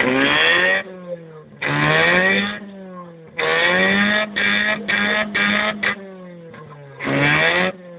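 Mazda 323F engine revved hard in repeated throttle blips, about four in all, to make the exhaust spit flames. The engine pitch climbs and falls between blips, and each blip brings a loud, abrupt rasp from the exhaust. In the middle comes a quick string of short bursts.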